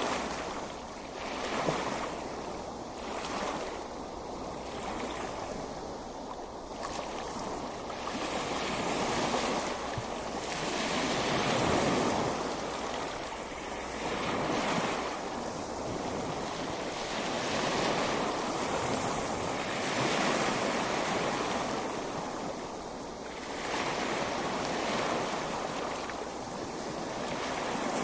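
Ocean waves breaking and washing up on a beach, the surf swelling and falling back every few seconds, with some wind.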